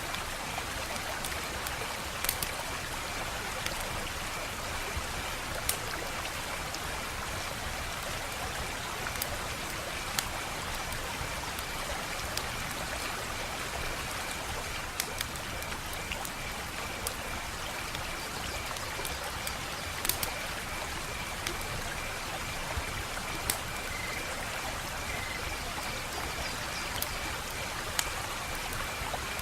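Wood fire crackling: a steady hiss broken by sparse sharp pops and snaps every second or few, the loudest about twenty seconds in. A faint, steady, high trill sits underneath.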